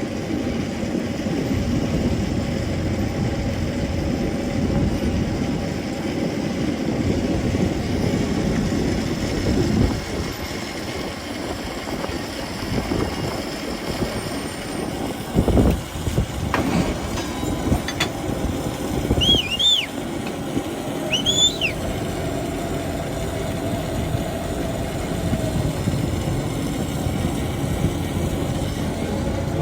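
Train running on the rails, a steady rumble with a brief thump about halfway through. A few short high chirps come near the middle.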